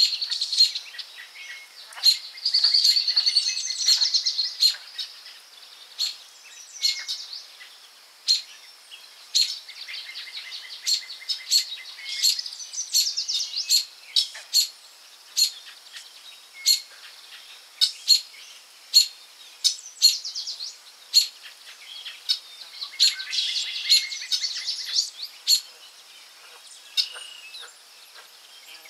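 Forest birdsong: several birds chirping, with many short sharp call notes and a few trilling songs, the trills around two to five seconds in, near the middle and about three quarters of the way through.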